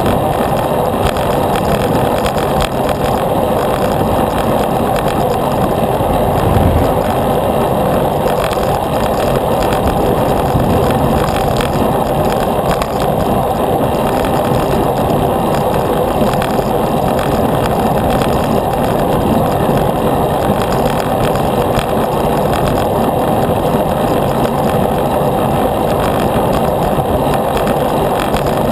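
Steady rushing wind and road noise from riding a bicycle at speed, buffeting the camera's microphone, with one brief low thump about six and a half seconds in.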